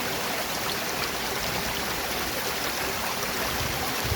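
Waterfall and stream water rushing, a steady even wash of noise.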